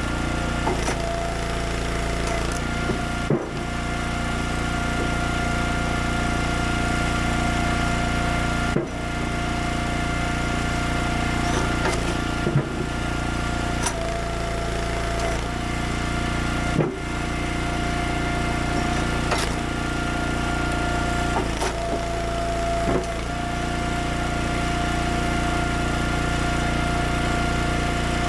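Small gasoline engine running steadily at a constant speed, with wood knocking and shifting at times as firewood is worked; the sound breaks off sharply for a moment a few times.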